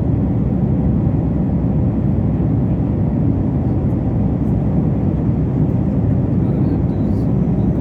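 Steady low rumble of an airplane, engines and airflow running evenly with no change in level.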